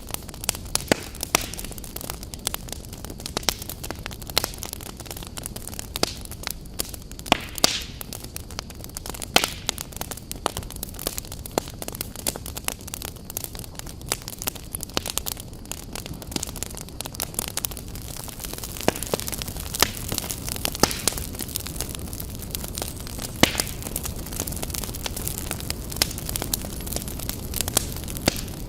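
Fire in a fireplace crackling, with frequent sharp, irregular pops over a steady low rushing noise.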